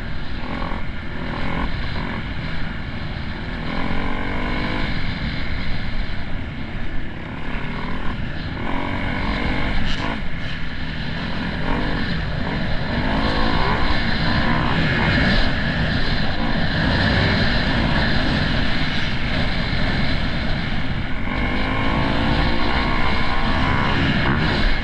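Dirt bike engine running under riding, its pitch rising and falling again and again as the throttle opens and closes.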